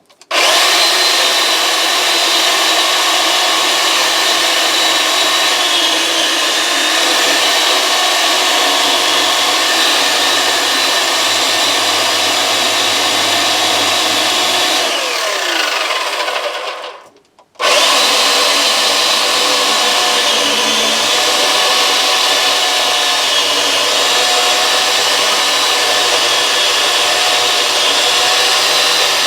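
Electric chainsaw running and cutting small firewood, a steady loud motor whine. About fifteen seconds in the motor is released and winds down with a falling pitch to a stop, then it starts again abruptly a moment later and carries on cutting.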